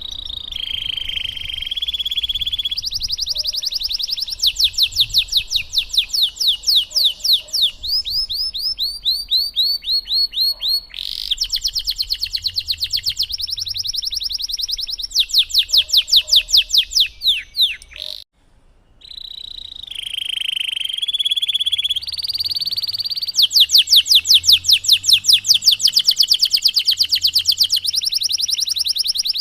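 Domestic canary singing a long rolling song: phrase after phrase of rapidly repeated high notes, each phrase at a different speed and pitch, with a short break about eighteen seconds in.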